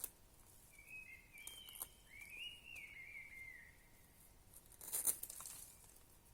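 A bird singing a wavering, warbling phrase for about three seconds. A few sharp clicks sound along with it, and a brief rustling crackle comes about five seconds in.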